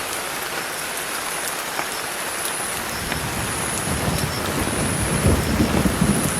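Steady hiss with faint ticks, joined about halfway through by low rumbling that grows louder.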